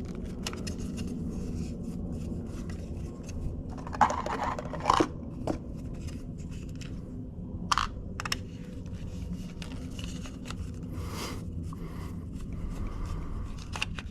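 Clicks and scrapes of hand work on a steering wheel's plastic housing as the control module is worked loose, with a few short scraping or rustling noises among scattered clicks. A steady low hum runs underneath.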